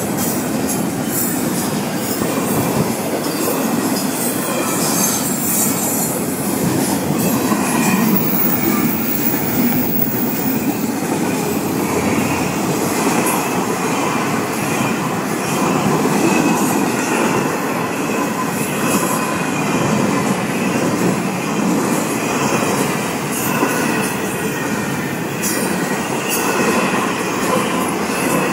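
Intermodal freight train of double-stack container cars and trailer flatcars rolling past close by: a steady, loud rumble of steel wheels on rail with rapid clicking over the rail joints.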